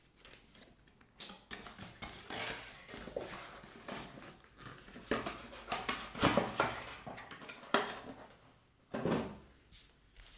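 Cardboard trading-card boxes and packs being handled: irregular taps, scrapes and rustles of cardboard and packaging as one box is set aside and the next is opened.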